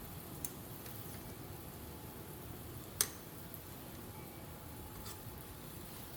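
Quiet handling sounds from sewing work: a few faint ticks, and one sharp click about three seconds in.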